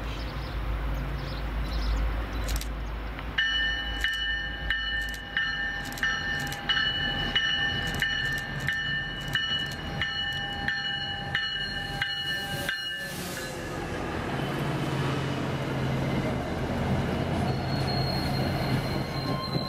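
EMD F40PH diesel locomotive arriving with a commuter train. Its warning bell rings steadily for about nine seconds and stops abruptly, then the locomotive's diesel engine rumbles past close by and the coaches roll through, with a thin wheel squeal near the end.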